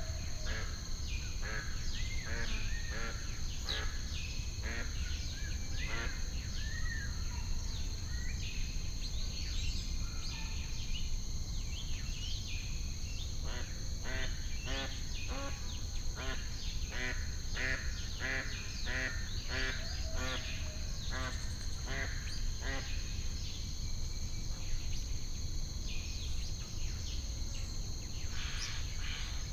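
Ducks quacking again and again, many short calls overlapping and busiest in the middle, over a steady high whine and a steady low rumble.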